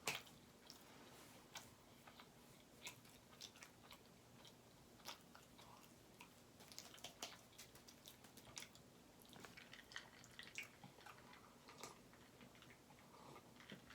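Faint close-miked chewing: irregular soft mouth clicks as a person eats a meal of butter chicken, rice and naan.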